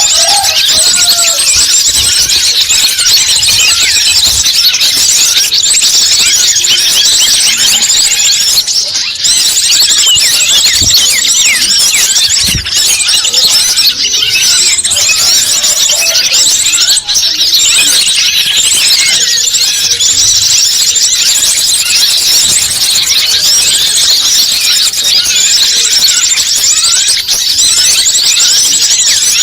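Dense, unbroken twittering of many small birds at once: rapid high chirps, trills and short gliding notes overlapping without a pause, as played in a bird-lure (pikat) recording.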